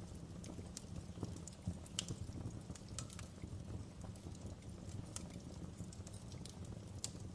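Wood fire burning in a fireplace, crackling with irregular sharp pops over a steady low rumble of flame.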